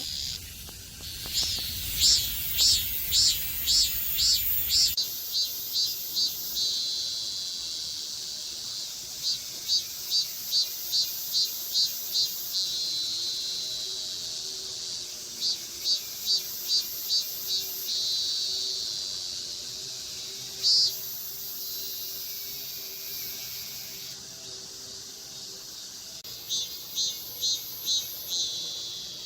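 Cicada song: runs of loud, evenly spaced pulsed calls, about one and a half a second, alternating with stretches of steady high buzzing.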